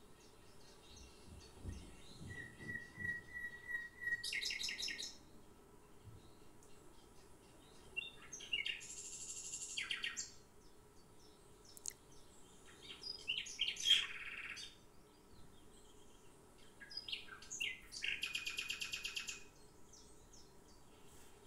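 A songbird singing in separate phrases: high chirps, a held whistle a couple of seconds in, and several fast trills, the loudest burst of notes about fourteen seconds in.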